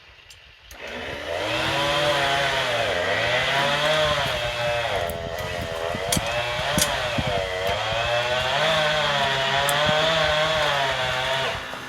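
Chainsaw revving up about a second in and cutting through a log, its engine pitch dipping and recovering over and over under load, then easing off near the end.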